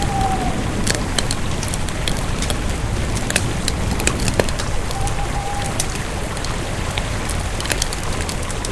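Wood campfire burning, with irregular sharp crackles and pops over a steady low rush of flame. A faint thin whistle sounds briefly at the start and again about five seconds in.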